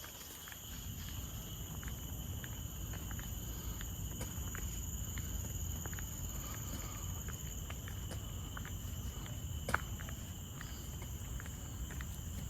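Forest insects droning steadily at several high held pitches, over a low rumble, with soft regular footsteps on a path and one sharper click about ten seconds in.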